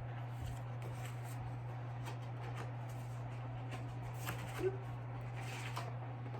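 Soft rustling and light clicks of paper being handled, with a slightly louder rustle about four and a half seconds in, typical of a picture book's page being turned. Under it, a steady low electrical hum.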